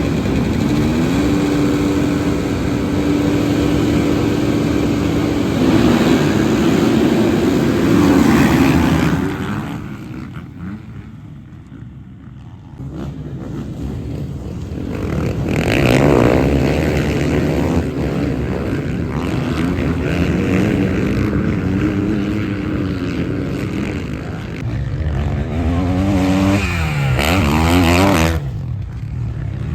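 Motocross bikes racing, engines revving up and down with gear changes. They fade for a few seconds about a third of the way in, then bikes pass close about halfway and again near the end, their pitch dropping as they go by.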